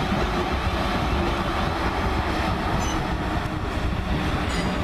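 Class 458 Juniper electric multiple unit running past, a steady rumble of wheels on track, with brief faint high squeals about three seconds in and again near the end.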